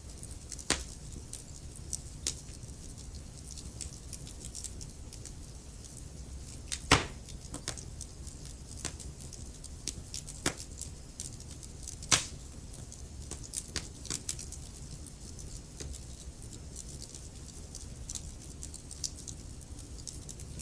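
Wood fire burning in a fireplace: a steady low rumble of flames with irregular crackles and pops from the logs, the sharpest pops about seven and twelve seconds in.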